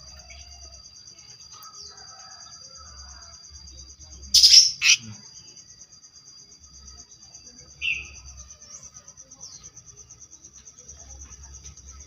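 Bird calls: one loud, harsh call about four seconds in and a short chirp near eight seconds, over a steady high insect trill.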